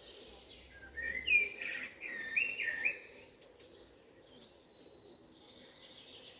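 A bird calling: a string of loud whistled notes that bend up and down in pitch, starting about a second in and lasting about two seconds, over faint high chirping.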